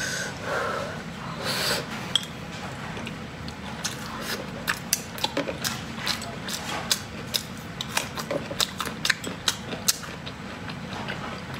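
A person eating and chewing, with many short wet clicks from the mouth, several a second, through most of the clip.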